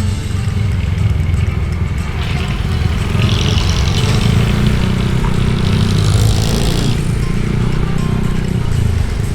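Motorcycle engine running steadily under a dense rumble of road and wind noise while riding through town traffic, with two spells of louder hiss, about two and six seconds in.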